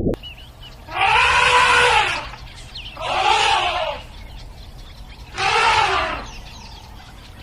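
An animal giving three harsh, screaming calls about a second long each, evenly spaced, each rising then falling in pitch.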